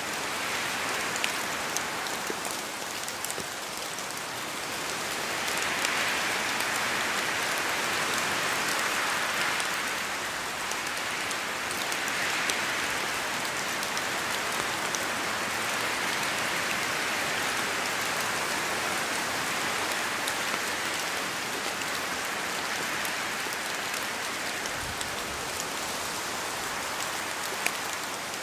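Steady rain falling on a surface, an even hiss with scattered individual drop ticks, swelling slightly louder now and then.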